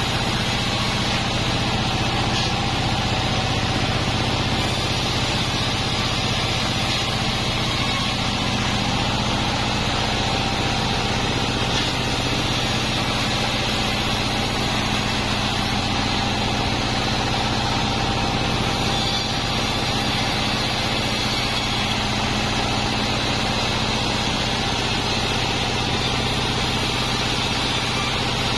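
Sawmill bandsaw machinery running steadily, a constant mechanical drone with a low hum and a steady higher tone throughout.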